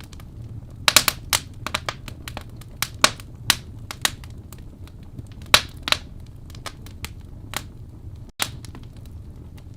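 Wood fire crackling in a fireplace: sharp, irregular pops and snaps from the burning logs over a steady low rumble of the flames. The sound cuts out for a split second about eight seconds in.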